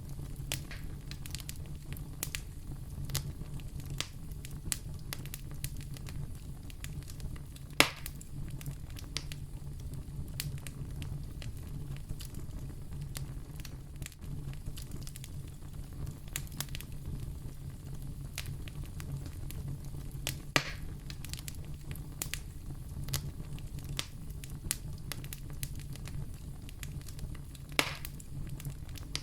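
Wood fire burning in a fireplace: a steady low rumble of flame under constant irregular crackling, with three sharper, louder pops spread through.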